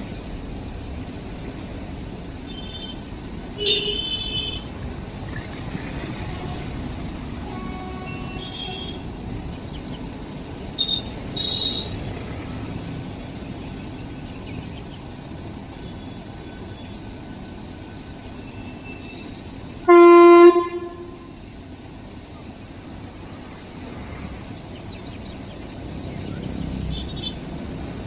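A horn blows once, loud and brief, about two-thirds of the way through, over a steady rumbling background. Shorter, high-pitched toots sound a few seconds in and again around the middle.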